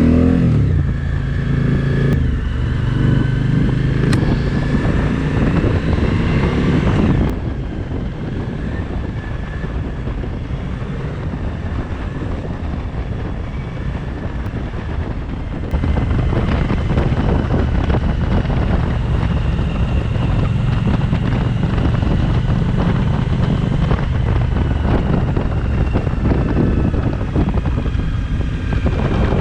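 Suzuki V-Strom 1050XT's V-twin engine pulling away and running while the motorcycle is ridden, with wind and road noise. The sound drops to a quieter level about seven seconds in and comes back up about halfway through.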